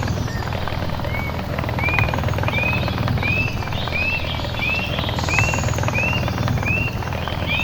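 A bird repeating a short whistled note that rises and falls, about one and a half times a second, beginning about a second in, over a loud steady low rumble.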